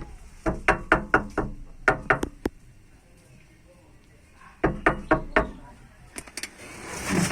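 Three quick runs of sharp knocks, several a second, with a longer pause before the third run. These are taps struck in the work on an old umplung motorcycle muffler.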